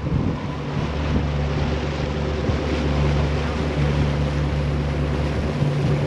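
The twin engines of a 1992 Sea Ray 380 Sun Sport, on Bravo 3 sterndrives, running under way with a steady, even drone. The two engines are synchronized, a sign of a boat running well. Wind and water rush along with them.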